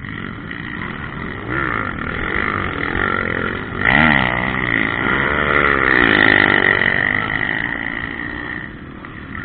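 Motocross bike engines on the track. One bike revs up and drops off in swooping pitch arcs about four seconds in and again from five to seven seconds, over a steadier high engine drone.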